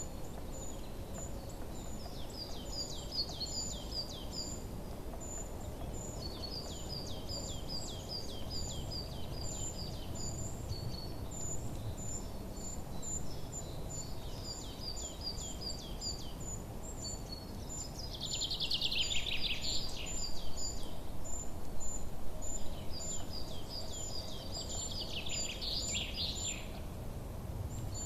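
Songbirds singing over a steady low background rumble: phrases of quick, high, falling notes, a thin high chirp repeated about twice a second, and two louder buzzy trills, one about two-thirds of the way in and one near the end.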